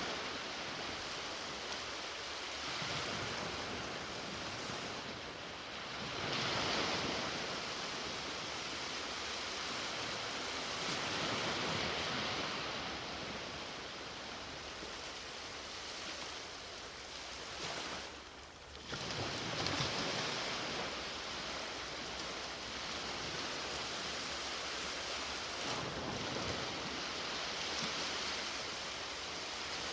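Ocean waves breaking and washing up on a beach: a continuous surf rush that swells every several seconds. There is a brief lull a little past halfway, then a louder wave breaks.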